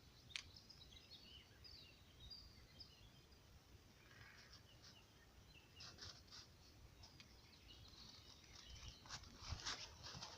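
Quiet forest ambience: faint, scattered high bird chirps, with a few soft clicks, one about half a second in and more near the end.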